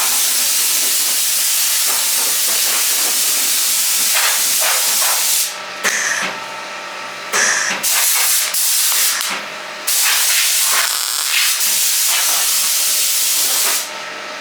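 Dual-action (DA) sander with 120-grit paper running on the car's bodywork, a steady hiss that stops about five seconds in, comes back in short spurts, runs again and stops near the end.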